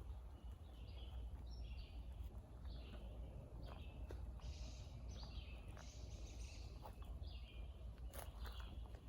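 Birds chirping over and over in short calls, over a steady low rumble, with a few sharp clicks about eight seconds in.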